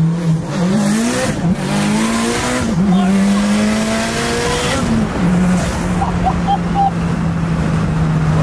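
Tuned turbocharged car's engine heard from inside the cabin under hard acceleration, its note climbing and then dropping sharply at each gear change several times, then settling to a steady drone for the last few seconds.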